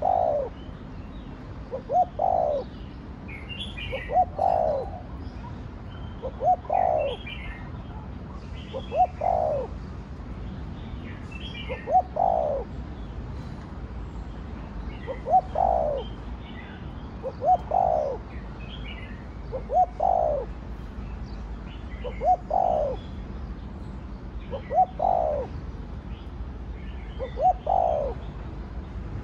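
Spotted dove cooing in the 'Thổ Đồng' voice style, repeating the same phrase of two short notes and a longer, falling note about every two and a half seconds. Fainter high chirps come between the phrases.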